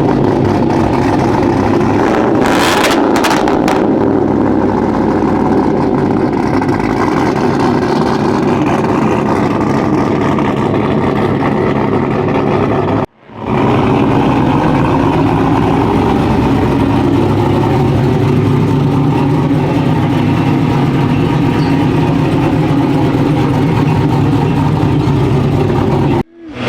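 Motor vehicle engines running steadily, with a few short sharp clicks about two to three seconds in. The sound cuts out abruptly for a moment about halfway through and again near the end.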